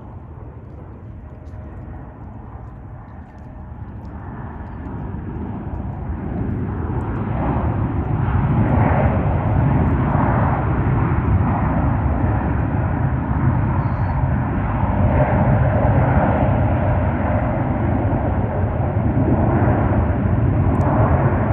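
Jet airliner passing close, its engine noise rising steadily over the first several seconds into a loud, deep rumble that then holds.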